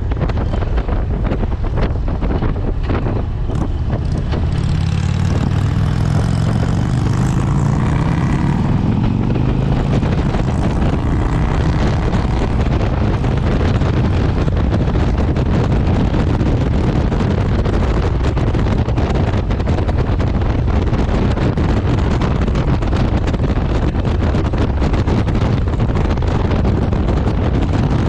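Motorcycle engine accelerating, its pitch rising over several seconds from about four seconds in, then running steadily at speed under heavy wind rush on the microphone.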